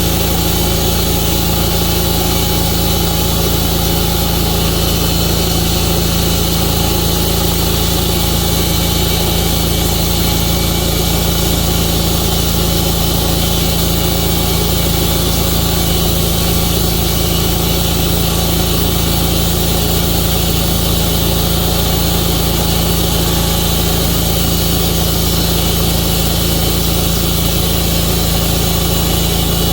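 Tru-Cut portable sawmill's engine running steadily at an even pitch, with no change in speed or load.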